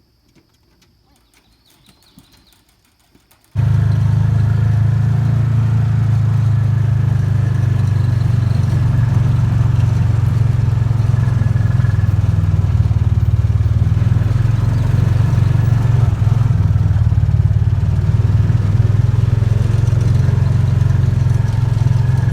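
Vehicle engine running steadily with a loud low drone. It starts abruptly about three and a half seconds in, after a quiet start with a few faint clicks.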